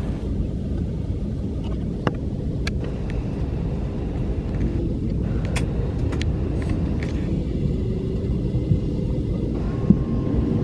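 Steady low rumble inside the cabin of an Airbus A321 parked before engine start, with a few short clicks.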